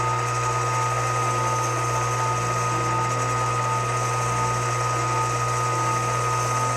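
Small benchtop lathe (Sakai ML-210) running steadily, with a low motor hum and a steady high whine.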